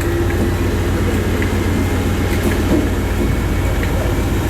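Class 56 'Grid' diesel locomotives idling while stood at a signal, a steady low engine rumble.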